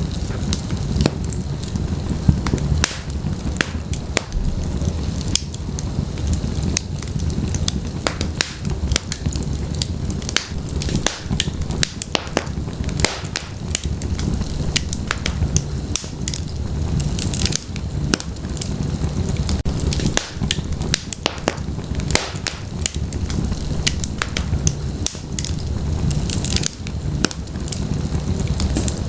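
Wood fire burning in a fireplace: a steady low rumble of the flames with dense, irregular crackles and pops from the logs.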